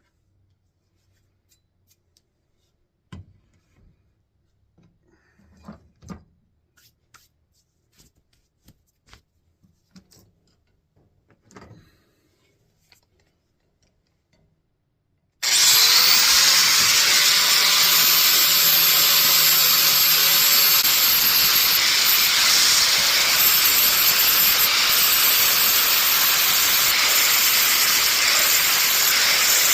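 Faint handling clicks and knocks, then about halfway an angle grinder spins up with a rising whine and runs steadily, its flap disc grinding paint off a steel axe head.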